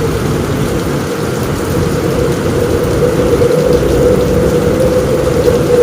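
Steady rain on a roof over a deep, constant low rumble of storm wind.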